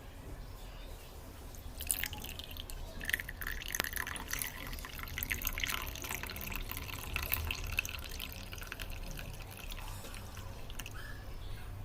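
Tea being poured, splashing and dripping for several seconds. It starts about two seconds in and trails off near the end.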